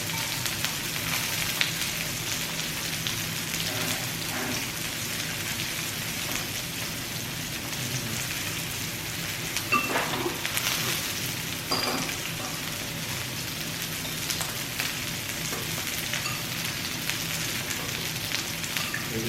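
Pork belly sizzling and crackling steadily on a grill, with a few brief clicks about ten and twelve seconds in.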